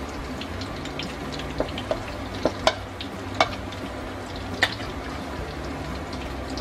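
Salami slices frying in a skillet, a steady sizzle with fine crackles. Over it come about half a dozen sharp clicks and knocks from boiled plantains being mashed in a bowl.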